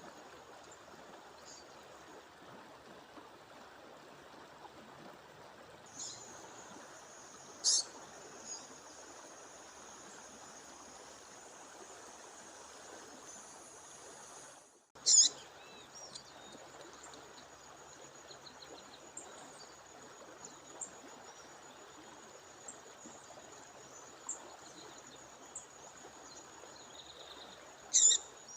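A female songbird calling over the steady rush of a waterfall. Three loud, sharp, high chirps come about 8, 15 and 28 seconds in, with softer short calls between them, and a thin steady high whine runs through much of it. All sound drops out for an instant just before the second loud chirp.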